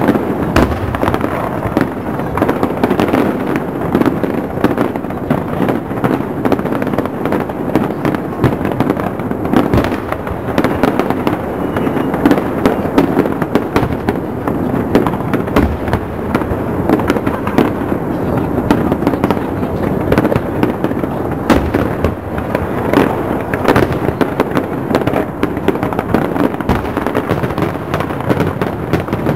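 Aerial fireworks shells bursting in rapid, overlapping succession: a dense, continuous barrage of bangs and crackles with no pause.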